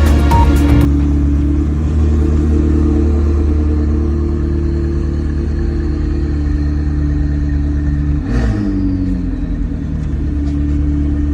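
A car engine running at a steady pitch, with a short rush that falls in pitch about eight seconds in, as of a car sweeping past. Electronic music cuts off just under a second in.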